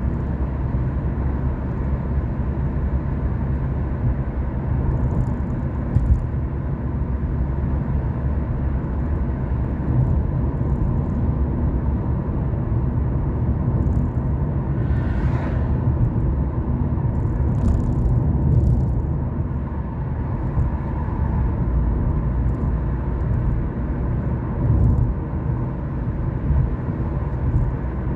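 A car driving along a road: steady low engine and tyre rumble, with a brief swell about halfway through.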